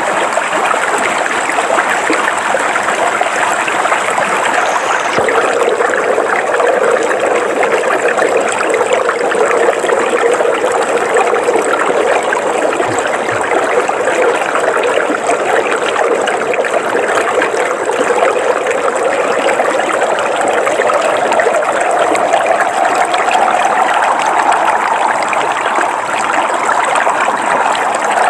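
River water flowing steadily over rocks, a continuous even rush with a gurgling edge. A faint high steady tone sits above it throughout.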